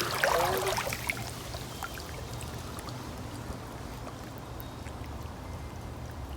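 Creek water trickling and running steadily, with a few faint ticks over it.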